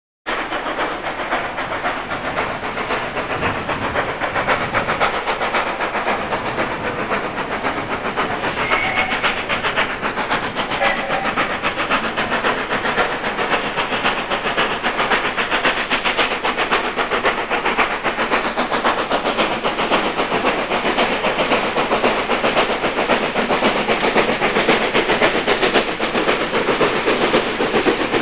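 Steam locomotive, the WD Austerity 2-10-0 No. 3672, working a train with a continuous hiss of steam and a rapid exhaust beat, growing slightly louder as it nears.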